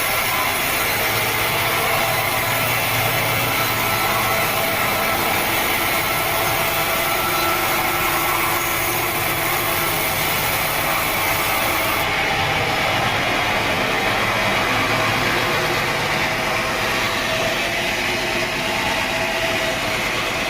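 Sawmill saw and its drive motor running steadily, a dense mechanical din with a steady hum and whine. The high hiss drops away about twelve seconds in.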